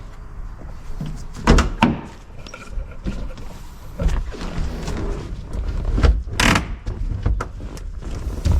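Irregular knocks and clanks of hand work on a car's wheel while it is being taken off, a handful of separate hits spread over several seconds.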